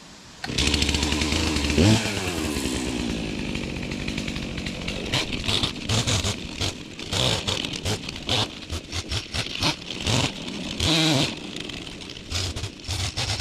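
Chainsaw engine comes in about half a second in and revs high near two seconds, then drops back. It then runs with the throttle surging and easing again and again while cutting trees to clear a trail.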